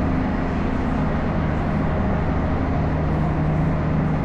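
Steady low engine drone of the Hakone pirate-style sightseeing ship, heard on board, with a constant hum and rumble.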